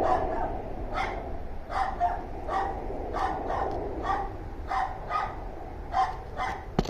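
Dogs barking over and over without a break, about two barks a second. A sharp click comes near the end.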